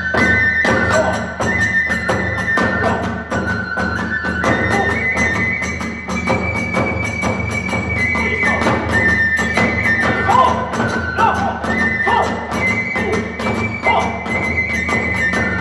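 Kagura hayashi: a bamboo transverse flute playing long held notes that step up and down in pitch over fast, even beats of drums and tebyoshi hand cymbals.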